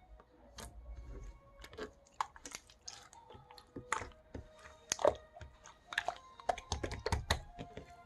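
Irregular light clicks and taps, several a second, with a few sharper ones about halfway through, over faint background music.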